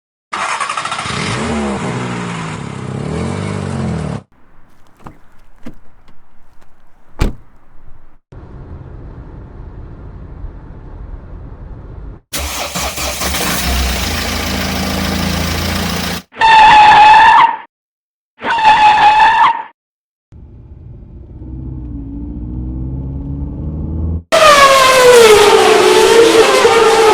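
A string of separate car sound effects: an engine running with gliding revs, a few sharp clicks, steady driving noise, then two horn honks of about a second each, an engine rising, and a loud sound falling in pitch near the end.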